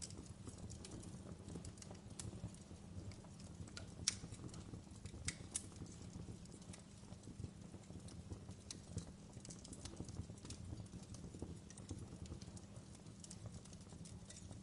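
Wood fire burning in a fireplace: a steady low rumble of flames with irregular sharp crackles and pops. The loudest pops come about four and five and a half seconds in.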